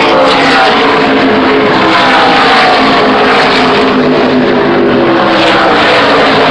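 NASCAR stock cars racing past at full throttle, a loud unbroken engine sound with several engine pitches falling as cars go by.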